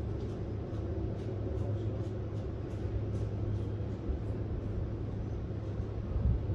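Cruise ship's engines and machinery running, a steady low hum under an even hiss.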